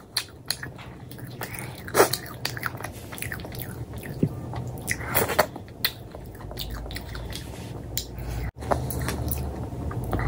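Close-miked eating: a person biting and chewing paratha, with scattered wet mouth clicks and a few louder smacks.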